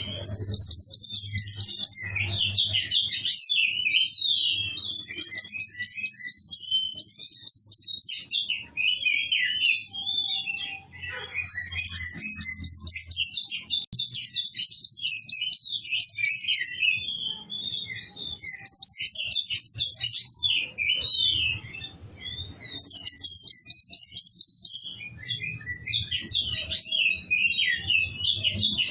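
Kowul songbird singing nonstop: fast, high trills a second or two long alternate with lower, jumbled twittering. A low hum runs underneath.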